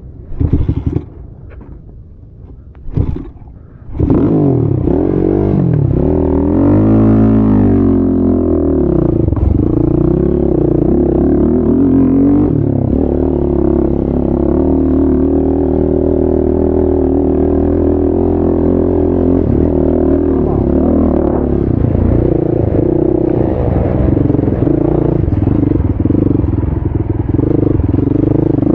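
ATV engine running loudly, coming in suddenly about four seconds in after a few short knocks, revving up and back down around six to eight seconds, then running at a steady pitch.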